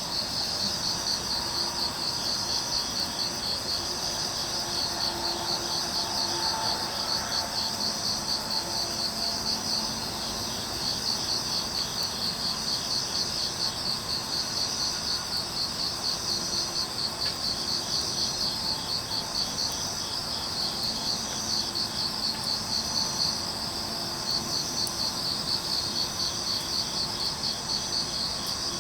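Crickets chirping in a steady, even rhythm of high-pitched pulses.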